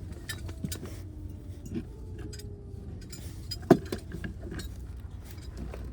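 Scattered light clicks and clinks of small hard objects being handled, with one sharper knock a little past the middle, over a low steady rumble.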